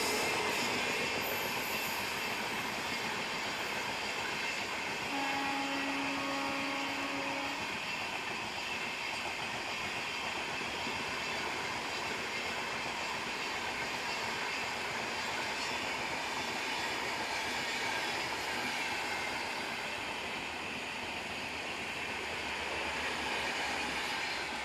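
Indian Railways train running past with a steady noise of wheels on rails. A held pitched tone sounds for about two seconds, around five seconds in.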